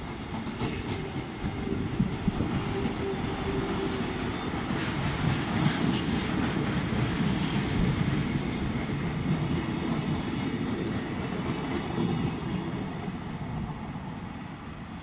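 Freight train of container wagons rolling past close by, the wheels clacking steadily, then fading over the last few seconds as the end of the train moves away.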